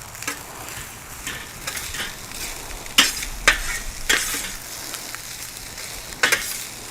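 Fried rice sizzling steadily on a hot griddle pan while a spatula stirs and scrapes it, with sharp clacks of the spatula on the pan, the loudest about three seconds in and again half a second later.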